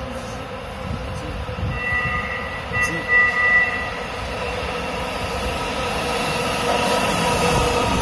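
New BART train pulling into the station, its electric drive humming steadily and growing louder over a rolling rumble. About two seconds in, a high two-note horn sounds twice, a short blast then a longer one.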